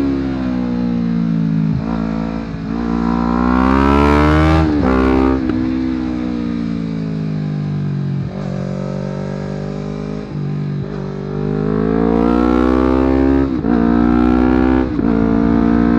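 Honda CBR250RR motorcycle engine through a Yoshimura aftermarket exhaust, revving hard under acceleration: the pitch climbs, drops sharply at gear changes, falls away in long stretches off the throttle, then climbs again.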